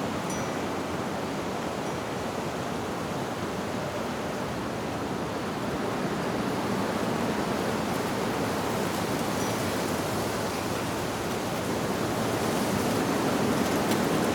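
Wind blowing through leaves, a steady rushing rustle that swells slightly louder toward the end.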